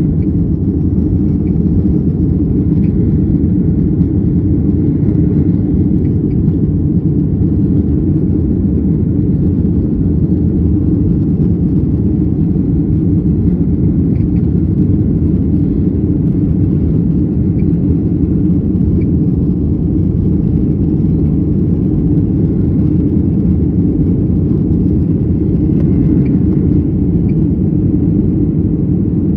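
Steady low rumble inside the cabin of a Boeing 737-800 in the climb after takeoff: its CFM56-7B jet engines and rushing air, holding an even level.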